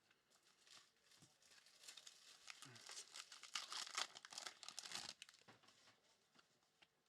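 Faint crinkling and crackling of a trading-card pack's foil wrapper being handled and torn open. It builds up about a second and a half in and dies away after about five seconds.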